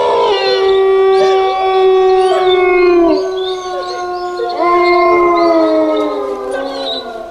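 Wolves howling: long, held howls overlapping one another, one dropping in pitch about three seconds in and a new one rising in near five seconds in, cutting off suddenly at the end.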